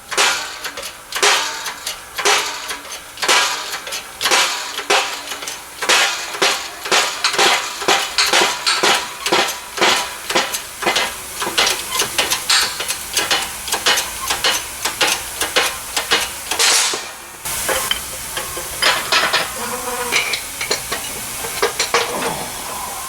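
Repeated metal-on-metal hammer strikes, about two to three a second, while knocking the pinion gear and its bearing out of a rear axle housing to reach the pinion shim. About seventeen seconds in the strikes stop and a steady hiss with a few clicks takes over.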